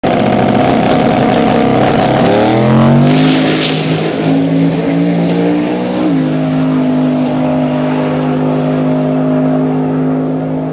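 Turbocharged drag-race truck's engine running loudly. Its pitch glides to a new level about two to three seconds in, shifts again near six seconds, then holds steady.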